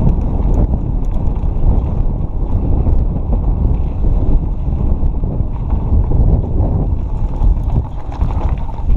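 Wind buffeting the camera microphone on a fast mountain bike descent, with the tyres rumbling over the dirt trail and scattered clicks and rattles from the bike.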